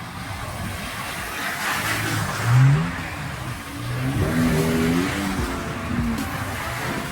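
Toyota Tacoma pickup driving over a rough, rocky dirt road: the engine revs up a couple of times over steady tyre and road noise.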